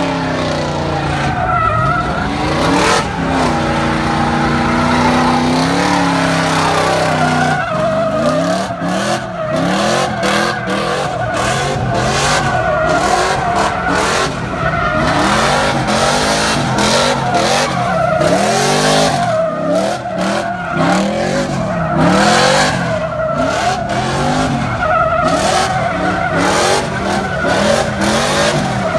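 Chevrolet Silverado's 5.3-litre V8 with an aftermarket camshaft, revved hard and repeatedly banging off the rev limiter. From about eight seconds in the engine pitch jumps up and down in quick, choppy surges over a steady hiss of tyres squealing and sliding.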